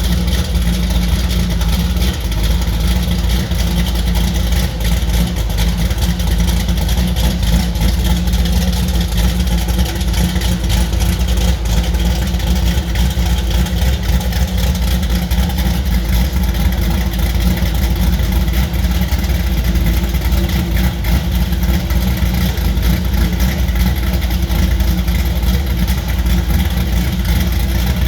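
Engine of a G-body Chevrolet Monte Carlo with a big aftermarket camshaft, idling loud and steady with no revving.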